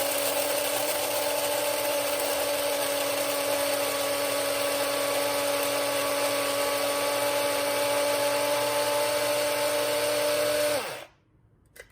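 Mr. Coffee electric burr coffee grinder running steadily as it grinds whole coffee beans on a coarse setting. About eleven seconds in, its motor winds down, falling in pitch, and stops.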